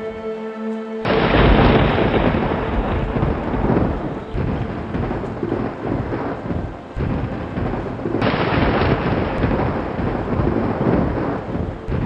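Thunder rolling over steady rain. A loud rumble breaks in about a second in, eases off around the middle, and a second roll builds up after about eight seconds. Soft sustained music tones are heard in the first second.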